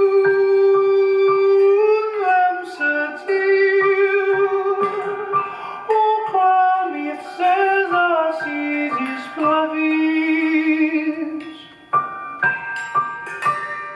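Live ensemble music: a single melody of long held notes with vibrato moves over accompanying instruments, with a brief drop in level near the end.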